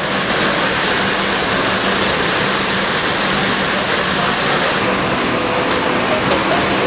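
Steady cabin noise of a Scania K410iB double-decker coach under way: an even rush of road and air-conditioning noise over a low, constant engine hum.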